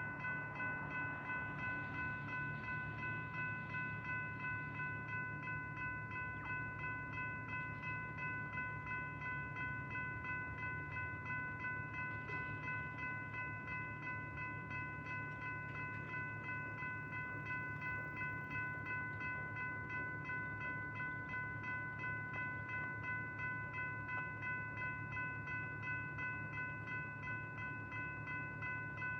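Level crossing electronic warning bell (E-bell) ringing, rapid even strokes that keep repeating: the crossing's warning for an approaching train. A low steady rumble runs underneath.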